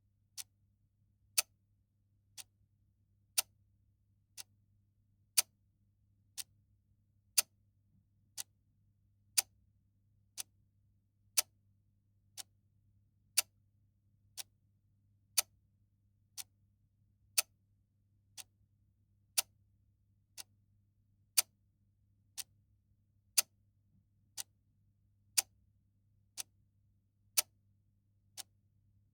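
Clock ticking steadily, about one tick a second, with the ticks alternating louder and softer in a tick-tock pattern. A faint low hum sits underneath.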